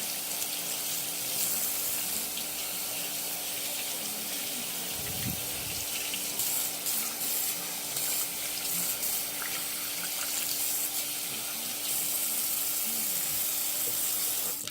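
Steady rush of running water, like a tap running into a sink, with a faint steady hum and one low bump about five seconds in; it cuts off abruptly at the end.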